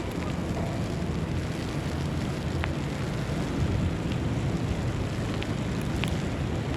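Outdoor city ambience in a snowstorm: a steady, even, low rumble with a few faint ticks scattered through it.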